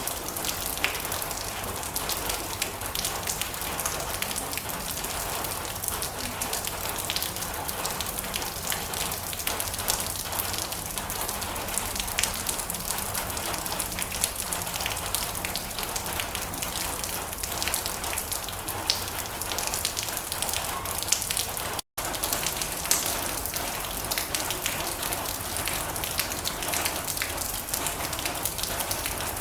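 Steady heavy rain pattering on a metal roof, with many sharp drop ticks over a dense hiss. It cuts out for an instant about three-quarters of the way through.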